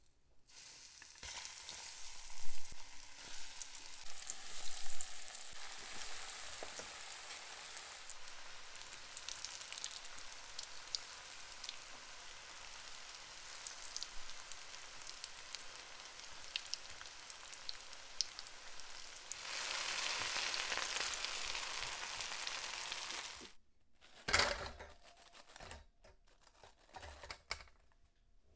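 Breaded potato croquettes deep-frying in hot vegetable oil in a stainless steel pan: a steady sizzle and crackle that starts as they go into the oil, grows louder for a few seconds, then cuts off. A few light knocks follow near the end.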